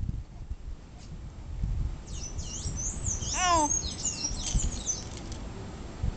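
Birds singing: a burst of high, quickly sweeping chirps from about two to five and a half seconds in, with one falling call in the middle.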